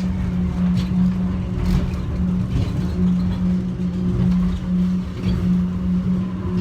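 Airport subway train running, heard from inside the car: a steady low hum that cuts in and out, over a rumble with a few faint rattles.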